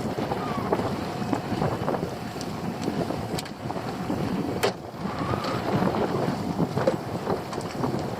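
Wind buffeting the microphone aboard a small fishing boat at sea, over the boat's running noise and water, with two sharp knocks in the middle.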